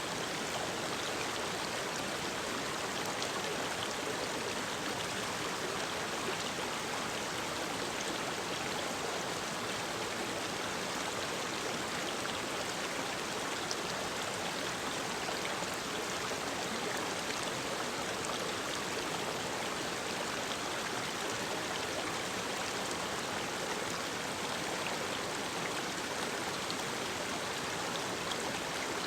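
Mountain stream running over rocks, a steady, even rush of water.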